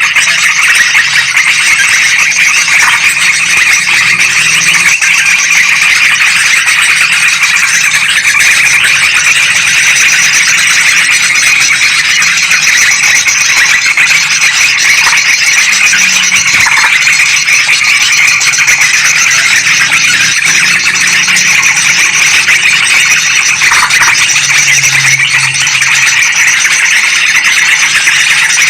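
Noisy, unbroken chorus of yellow-vented bulbuls and sooty-headed bulbuls, many high calls layered densely over each other: a bird-trapping lure recording.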